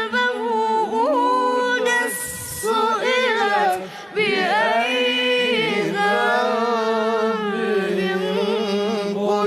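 A young boy's voice in melodic Quran recitation (tajweed), unaccompanied, holding long ornamented notes that waver and glide in pitch. There is a short break for breath about two seconds in and again near four seconds.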